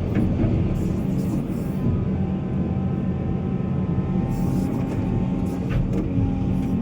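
Heavy diesel engine of earthmoving machinery running steadily with a low rumble, with short hissing noises now and then.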